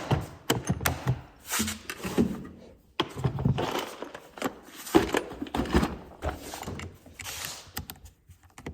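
Metal sockets and an adapter clinking and rattling as they are handled and pushed together, with rustling and a series of sharp clicks and knocks.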